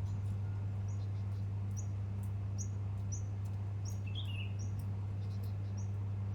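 A small bird repeating short high chirps about once a second, with a lower call about four seconds in, over a steady low hum and scattered faint ticks.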